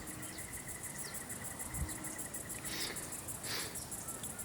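Insects chirping in a fast, high-pitched pulsing trill, about eight to ten pulses a second, steady throughout.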